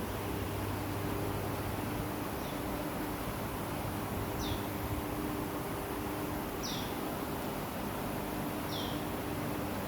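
Steady outdoor hiss with a faint intermittent low hum, and a bird's short, high chirp falling in pitch, repeated four times about every two seconds.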